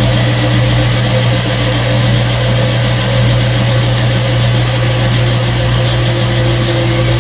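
Front-load washing machine running with a loud, steady motor hum and no change in pace.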